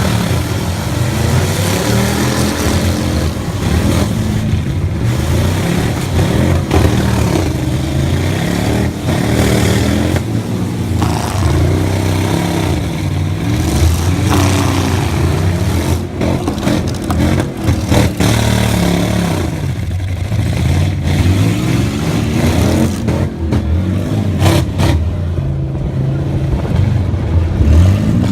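Loud truck engines revving hard, their pitch climbing and falling again and again.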